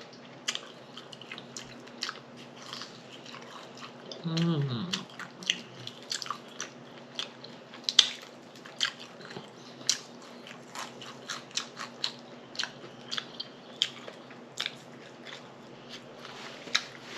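A person eating, biting and chewing with many irregular sharp mouth smacks and crunches. There is a short murmur about four seconds in.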